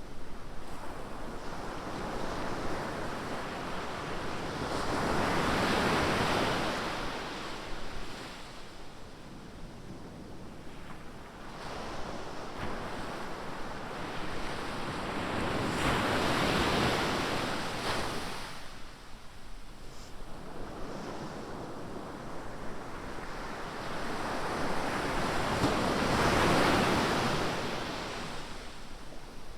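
Ocean surf: waves breaking on a beach in a continuous wash that swells three times, about every ten seconds, with some wind on the microphone.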